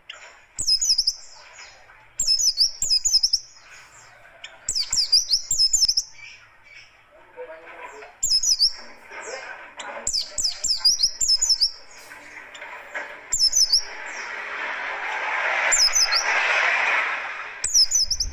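White-eye (pleci) singing rough, rapid bursts of high chirping notes, repeated every second or two, over a background hiss.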